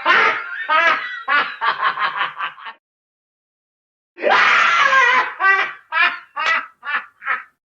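Creepy cackling laugh horror sound effect, heard twice: each time a breathy shriek breaks into a quick run of short 'ha' pulses that fade away. The second laugh starts about four seconds in.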